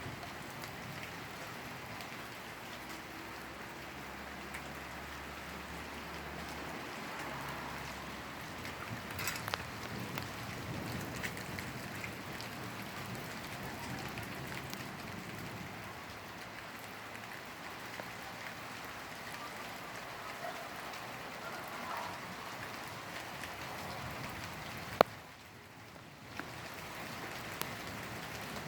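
Steady rain falling and pattering on surfaces during a thunderstorm. A single sharp click comes near the end, followed by a brief drop in level.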